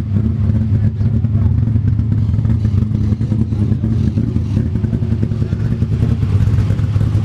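Car engine running steadily at a constant, low speed close by, a continuous low hum that neither rises nor falls.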